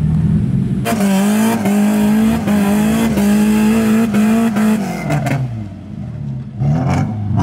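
Off-road 4x4's engine revved hard: it jumps to high revs about a second in and holds there for nearly four seconds with a rushing hiss over it, then the revs fall away, with a short throttle blip near the end.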